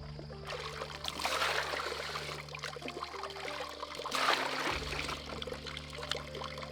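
Water pouring and trickling with small splashes, swelling twice, over a faint steady low hum.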